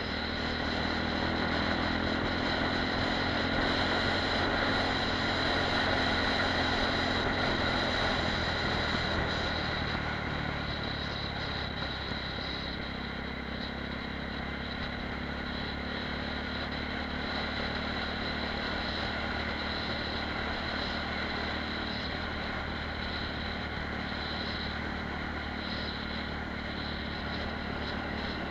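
Apollo RX250 supermoto's 250 cc single-cylinder four-stroke engine running at a steady cruise, with wind noise rushing over the microphone. The engine note eases off briefly about ten seconds in, then holds steady again.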